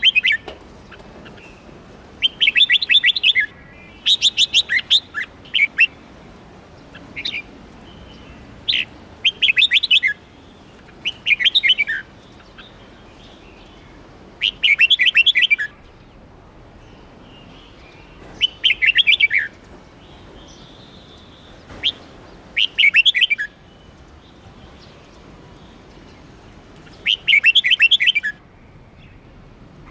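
A red-whiskered bulbul singing: short, loud phrases of rapid chattering notes, about a dozen of them, each a second or less long, with pauses of one to a few seconds between, over a faint steady hiss.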